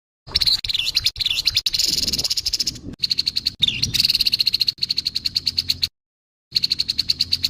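Grey-headed babbler giving its harsh call: a fast, rattling run of notes at about ten a second, in two stretches that stop abruptly, the second starting about six and a half seconds in.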